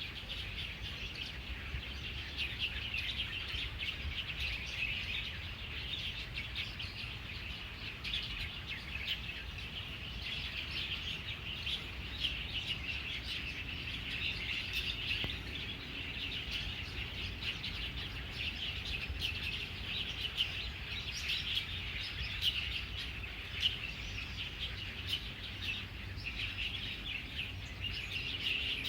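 Many small birds chirping and singing together in a tree, their calls overlapping in a continuous dense chatter, over a low steady rumble.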